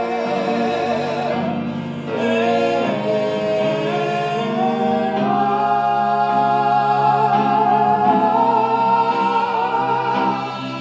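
Solo voice singing long held notes without clear words, with vibrato, over piano accompaniment; the melody steps up after about two seconds and a high note is held for several seconds before ending near the close.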